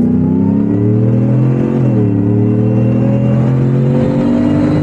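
Supercharged 5.0-litre V8 of a Shelby F-150 Super Snake pickup accelerating at full throttle. The engine note climbs in pitch, drops briefly at an upshift about two seconds in, then climbs again.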